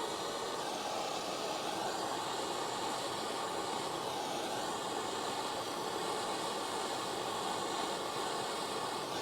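Gas soldering torch flame hissing steadily while solder is run into a leak in a heater core tank.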